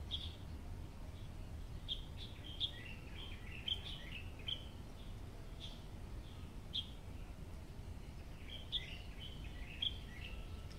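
Small birds chirping: short, high chirps scattered throughout, with busier flurries about two seconds in and again near the end, over a low steady rumble.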